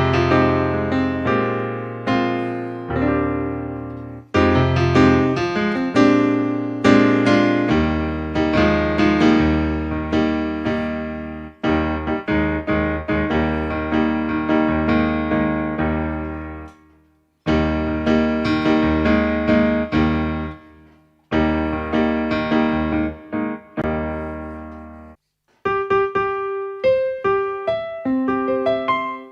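Casio AiX keyboard playing an acoustic piano tone: full chords over a bass line, in phrases with short breaks, then a lighter passage of single notes near the end.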